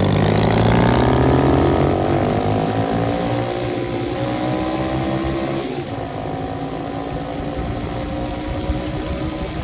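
125cc dirt bike engine running while riding, climbing in pitch over the first few seconds as it accelerates, then holding at a steady speed.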